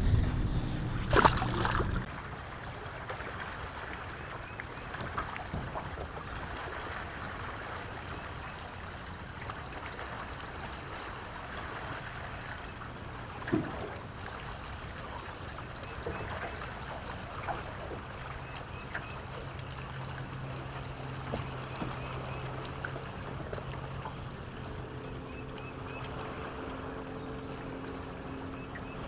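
Water lapping and wind noise around a small fishing boat, with scattered small ticks and one knock near the middle. A low steady hum comes in about two-thirds of the way through, and higher tones join it near the end.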